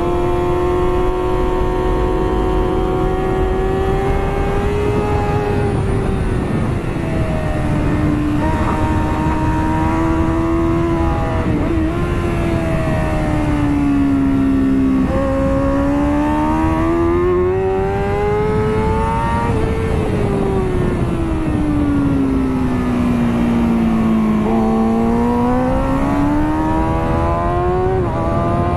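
A 2009 Kawasaki ZX-6R's inline-four engine at speed on a track, heard from onboard. The engine note falls as the bike slows and climbs as it accelerates, rising twice (around the middle and again near the end), with a sudden drop in pitch near the end at a gear change. Wind rush runs underneath.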